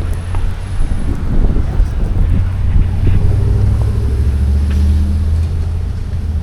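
A motor vehicle's engine running nearby as a low, steady hum, strongest from about two seconds in until near the end.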